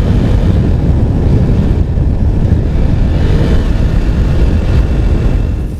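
Husqvarna Svartpilen 401's single-cylinder engine running through an aftermarket Arrow exhaust on the move, mixed with heavy wind rumble on the microphone. The sound cuts off abruptly at the very end.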